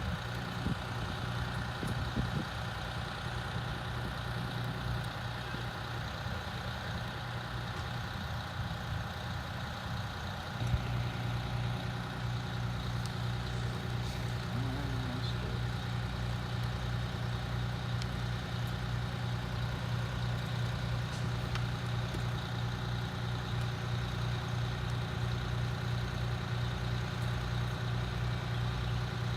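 A vehicle engine idling with a steady low hum and an even pulse, becoming louder about ten seconds in.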